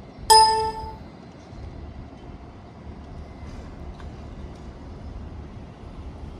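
A single loud, steady beep of about two-thirds of a second from a trolleybus's signal, cutting off sharply. It is followed by the steady low hum and rumble of the trolleybus.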